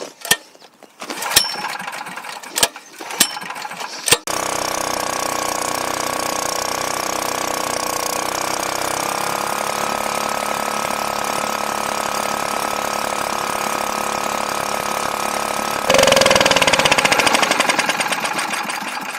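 A few sharp knocks and clicks, then the Honda EM3800SX generator's engine runs steadily from about four seconds in. Near the end it suddenly gets louder and its pitch sags, then fades. The engine is on a replacement carburetor that the owner finds was starving it of fuel with the choke stuck open.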